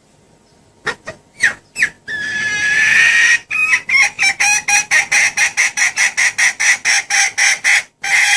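Junglefowl hen calling, played as a lure to draw a wild cock: a few short clucks, one longer drawn-out note, then a fast, even run of cackling notes about four a second that breaks off suddenly before two last notes.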